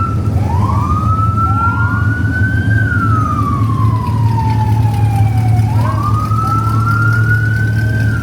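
Police siren on a slow wail cycle, rising for about two seconds and falling for about three, heard twice, with a fainter second wail overlapping. A steady low rumble runs underneath.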